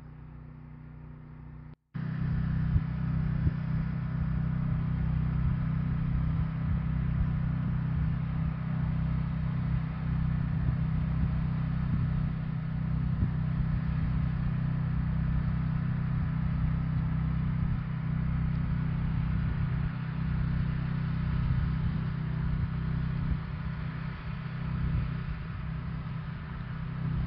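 A motor or engine running steadily with a low hum, starting loud after a brief dropout about two seconds in, with frequent small clicks over it.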